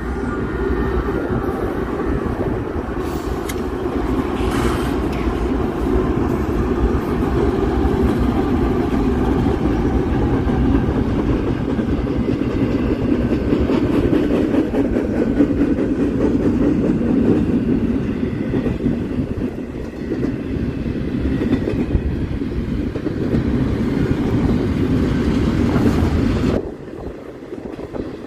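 A train rolling past close by: a steady, loud rumble of wheels on rail with some clickety-clack, which cuts off suddenly near the end.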